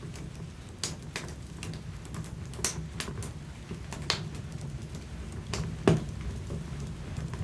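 Wood fire in a fireplace crackling, with irregular sharp pops over a low, steady rumble of the flames, and one louder pop about six seconds in.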